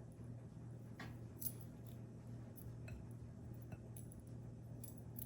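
Faint, scattered light clicks and taps of flour-coated chicken pieces being handled and set down on a wire rack, over a low steady hum.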